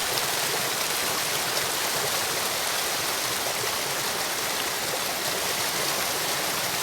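Waterfall: a steady, even rush of falling water, mostly hiss with little deep rumble.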